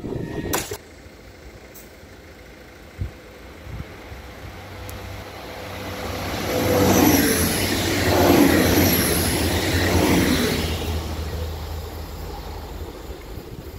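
Electric regional multiple-unit train running past on the rails. It grows louder as it approaches, is loudest with wheel and rail noise about eight seconds in, then fades as it goes away.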